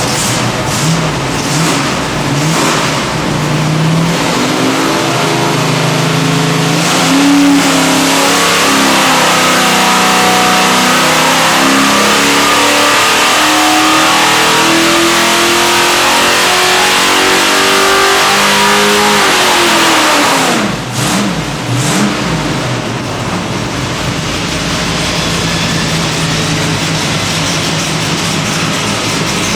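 Small-block Chevy 427 stroker V8 on an engine dyno: a few quick throttle blips, then a dyno pull with the engine note climbing steadily for about fifteen seconds. The revs drop sharply about twenty seconds in, a couple more blips follow, and it settles to idle near the end.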